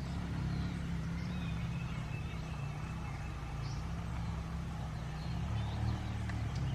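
A vehicle engine running at a steady low hum, with faint high bird calls above it now and then.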